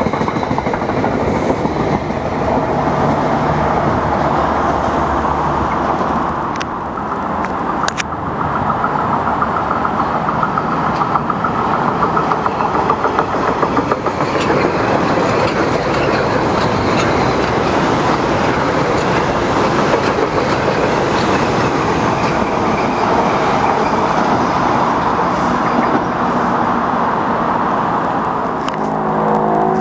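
Metro-North commuter train running past on the rails: steady wheel-on-rail noise with a couple of sharp clicks several seconds in. Near the end a steadier pitched hum comes in.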